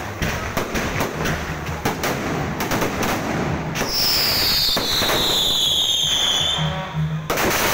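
Aerial fireworks going off: rapid crackling bangs, a falling whistle from a shell for a couple of seconds midway, and a loud burst near the end.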